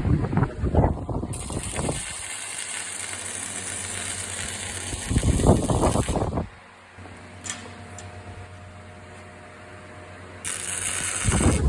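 Large metal gate being moved on its wheels, a dense rolling rattle of wheels and hardware that comes in three stretches over a steady noise.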